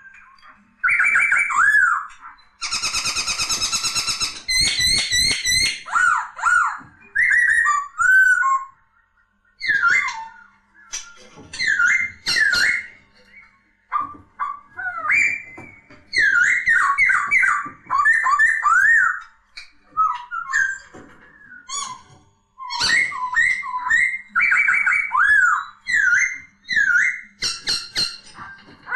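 Poksay, a Garrulax laughingthrush, singing: loud, varied whistled phrases of quick rising and falling notes, broken by short pauses, with a harsh rattling chatter about three seconds in.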